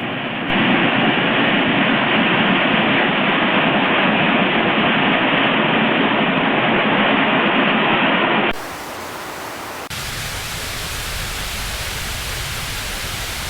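Steady rushing noise of flood water and rain, in two clips: a loud, muffled stretch, then after a sudden cut about eight seconds in a quieter, fuller rush with more low rumble.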